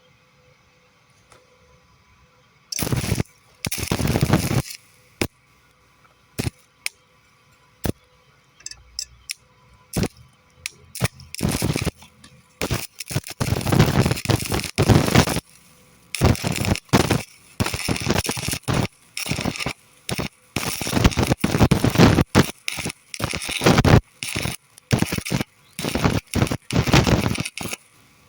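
Electric arc welding on steel angle iron, the arc running in stop-start bursts: two short bursts a few seconds in, then a long series of runs, each starting and cutting off abruptly.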